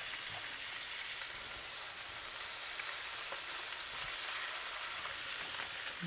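Cabbage frying in hot oil in a stainless steel pot: a steady high sizzle with scattered faint crackles.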